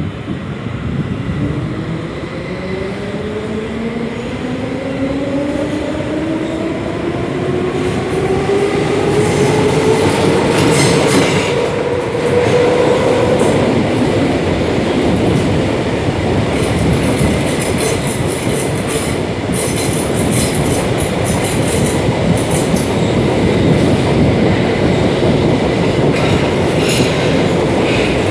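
Class 472 S-Bahn electric train heard from inside the car as it pulls away: the electric drive's whine climbs steadily in pitch for about a dozen seconds, then fades into the steady rumble and clatter of wheels on track. High-pitched wheel squeal cuts in about ten seconds in and again in spells later on.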